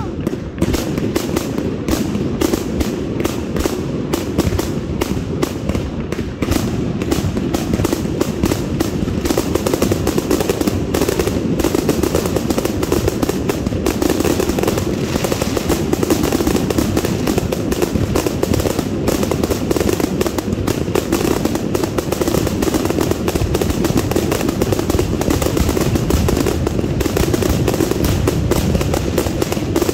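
Ground-launched consumer aerial fireworks firing a continuous barrage: rapid launch thumps and aerial bursts overlapping with no pause, loud and dense all the way through.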